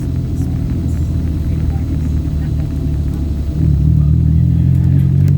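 Motor vehicle running on the road, heard from on board: a steady low engine rumble whose note rises and gets louder about three and a half seconds in.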